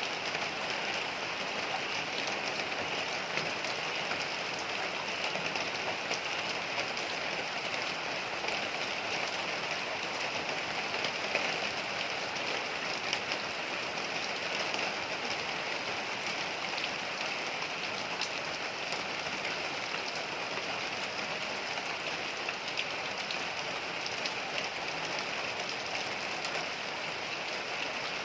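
Heavy rain falling steadily on hard surfaces, a dense, even patter of drops.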